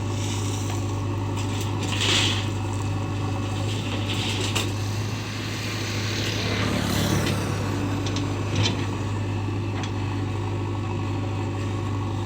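A heavy machine's diesel engine running steadily with a low drone, with a few short bursts of rushing noise and a sharp knock about two-thirds of the way through.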